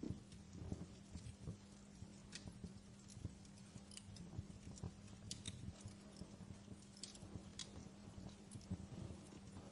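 Fire crackling quietly in a fireplace: irregular soft pops and snaps over a low steady hum.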